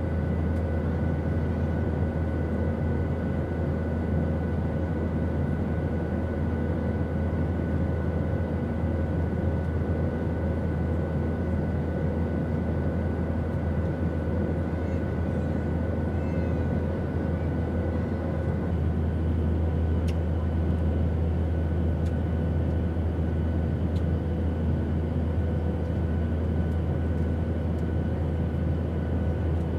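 Airplane engine noise: a steady low rumble with rushing air and faint steady hums over it. About two-thirds through, the hum shifts, with one tone dropping out and a higher one coming in.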